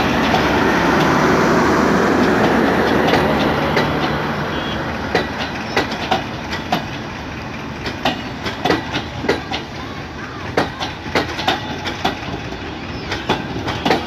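Bangladesh Railway intercity passenger coaches rolling past close by. A dense rumble of wheels on rails fills the first few seconds, then gives way to a run of sharp, irregular clicks and clacks as the wheels cross rail joints.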